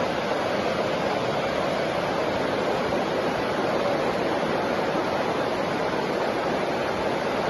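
A steady, unbroken rush of water from a heavy rainstorm.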